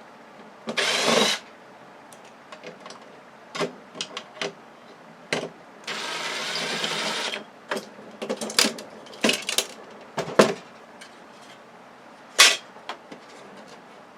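A cordless power screwdriver whirs in two short runs, backing out screws to take a bracket off a flat-screen TV. Between the runs come scattered clicks and knocks of screws and metal parts being handled.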